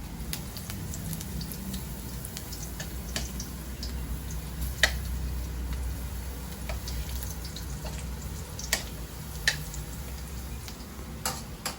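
A pot of tinola cooking on the stove, with a few sharp clicks of a utensil against the cookware.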